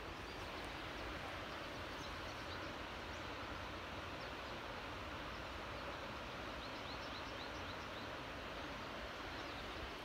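Woodland ambience: a steady hiss of background noise with small birds chirping, a couple of high chirps two to three seconds in and a quick run of about five chirps around seven seconds in.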